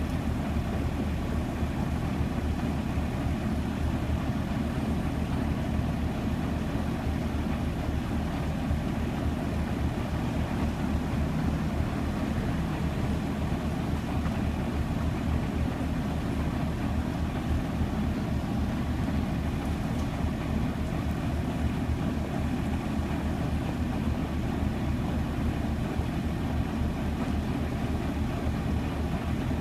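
Parked delivery truck's engine idling steadily, a constant low rumble that does not change.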